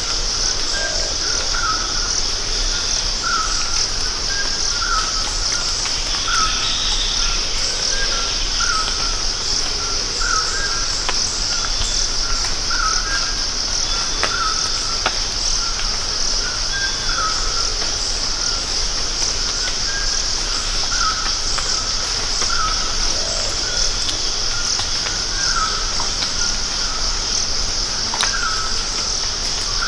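Steady, loud chorus of rainforest insects, with a bird repeating a short note about once a second.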